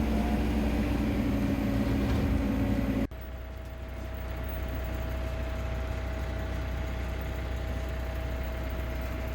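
Farm vehicle engine running steadily, in two clips joined by a sudden cut about three seconds in; the second clip is a lower, steady rumble with a thin whine over it.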